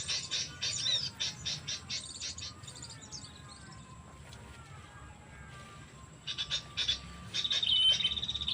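Small birds chirping rapidly in quick runs of high notes, easing off in the middle, then starting again with high whistled notes near the end.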